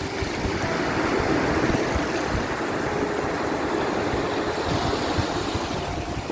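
Sea waves washing in: a steady rush of surf that swells just after the start and eases off near the end.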